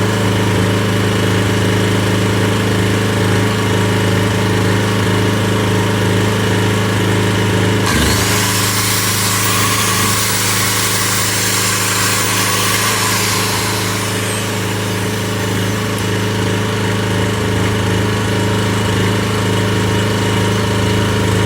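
Briggs & Stratton generator engine running steadily. About eight seconds in, a second, higher whine suddenly joins it and dies away over the next six seconds.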